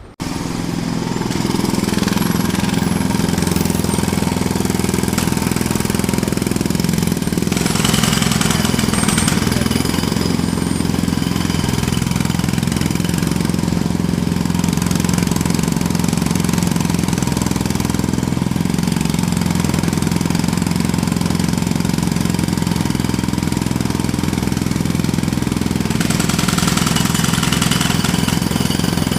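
Jackhammer starting suddenly and then hammering steadily and loudly.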